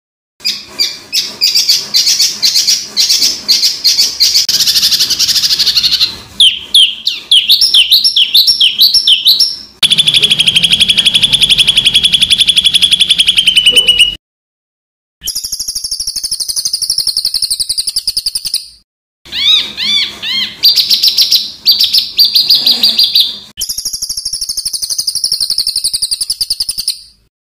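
Songbird calls edited into a training loop: harsh, fast-repeated call notes and rattling trills, with runs of upward-sweeping notes. The sections change abruptly, with two brief dead-silent gaps between them.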